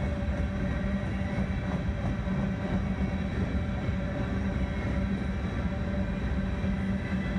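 Coal train's hopper cars rolling past: a steady rumble of steel wheels on the rails, with no breaks.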